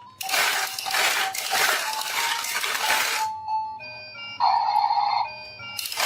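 Marbles rattling down a wooden marble run in long bursts, over jingly background music; a loud held note sounds a little after the middle, between the bursts.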